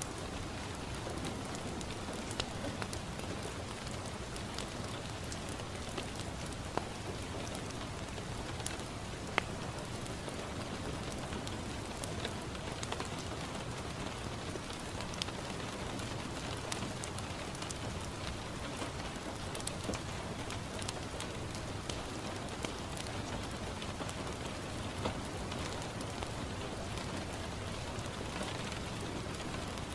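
Steady rain falling on a window, mixed with a wood fire crackling in a fireplace, with occasional sharp pops a few seconds apart.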